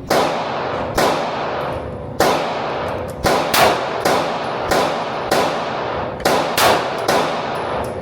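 About a dozen gunshots fired at an uneven pace, some in quick pairs. Each shot has a sharp crack and a long ringing echo.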